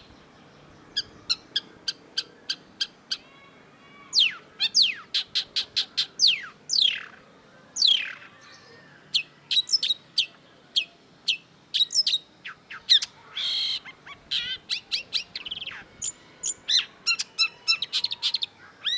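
Long-tailed shrike singing a long, varied song: strings of short, sharp high notes and fast descending whistles in quick succession, with one short harsh, rasping note about two-thirds of the way through.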